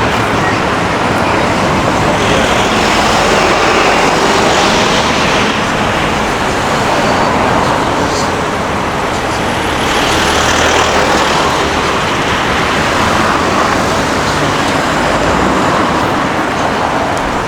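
Road traffic on a city street: a steady wash of tyre and engine noise, swelling as vehicles pass about three seconds in and again about ten seconds in.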